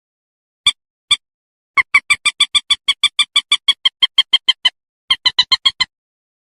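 Common moorhen calling: two single short notes, then a fast run of clipped notes at about eight a second lasting about three seconds, a brief pause, and a shorter run near the end.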